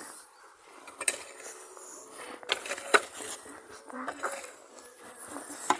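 A rake scraping and rustling through freshly mown grass and dandelions, gathering it into a pile, with irregular sharp clicks and scrapes, the loudest about three seconds in.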